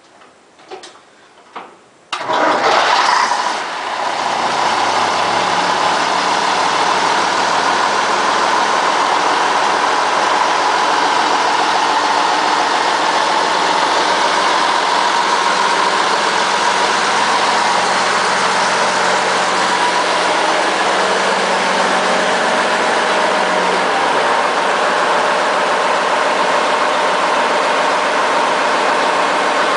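Scania 110 Super truck's diesel engine starting: a few faint clicks, then it fires about two seconds in with a brief loud burst and settles to a steady idle.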